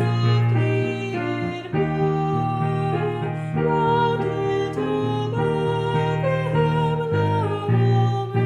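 Music: a voice singing a slow, gentle carol melody in held notes over piano accompaniment.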